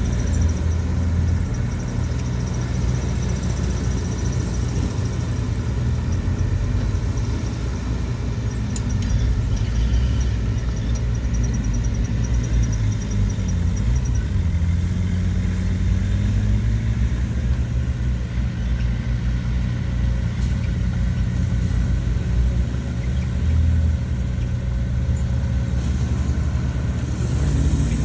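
Heavy diesel earthmoving machinery running: a steady low engine rumble, with the engine pitch dipping and rising about halfway through.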